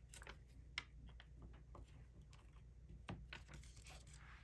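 Faint, scattered small clicks and taps from diamond painting handwork: a drill pen picking up and pressing down resin drills, over a low steady hum.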